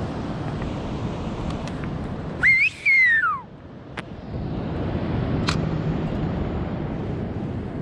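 Wind and water noise on the microphone, broken about two and a half seconds in by a loud whistle that rises briefly and then glides down in pitch over about a second.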